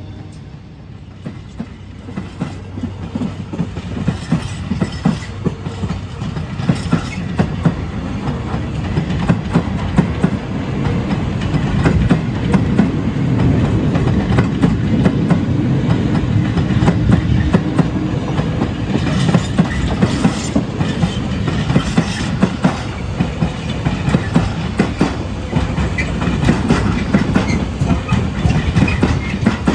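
Military train hauled by an ST48 diesel locomotive rolling past, its wagons' wheels clacking over rail joints with a low rumble underneath; it grows louder through the first half and then stays loud.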